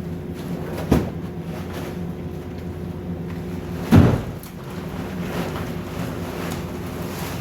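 An engine running steadily, with a sharp knock about a second in and a louder, heavier thump about four seconds in.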